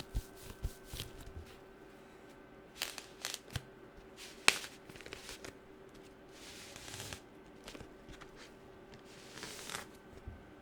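Fingernails tapping and clicking on objects in quick, irregular runs, with one sharper click about halfway through. Twice in the second half the tapping gives way to a short, soft scratching rustle.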